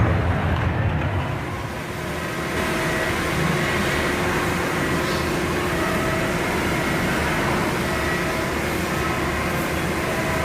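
Steady running of a vehicle engine or heavy machine, louder in the first second or so, with faint steady whines above it.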